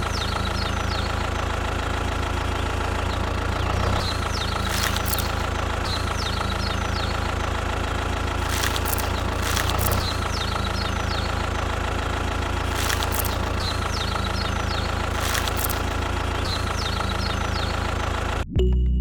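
Engine idling steadily with a low, even throb, with short high chirps and a few brief clicks now and then. It cuts off abruptly near the end.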